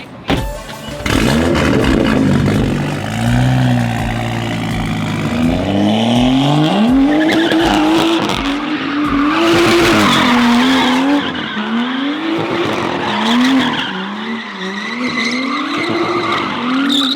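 A car doing donuts: its tires squeal continuously while the engine revs up and falls back again and again, starting about a second in.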